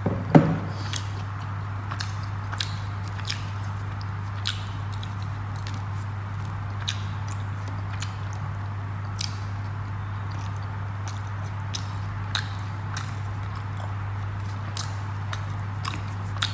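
Close-up eating sounds: chewing paratha and curry, with many scattered small wet mouth clicks and smacks over a steady low hum, the loudest click just after the start.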